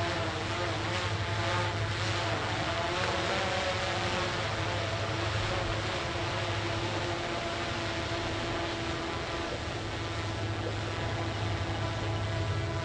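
Tugboat's diesel engine droning steadily as it pushes a barge, a constant low hum with several held tones.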